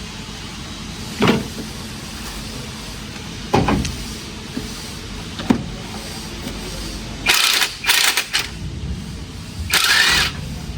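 Car repair work: a steady low hum with a few short knocks, then two loud bursts of hissing near the end.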